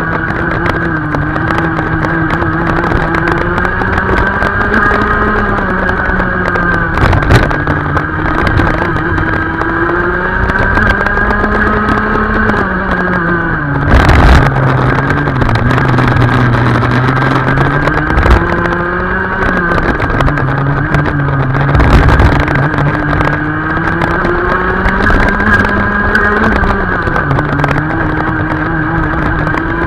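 Racing kart engine running hard, its pitch climbing and falling as it speeds up and slows for corners, with a few sharp thumps.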